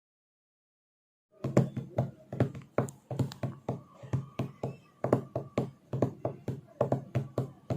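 Dead silence for about a second and a half, then a rapid run of sharp knocks or taps, roughly three a second, over a faint steady hum.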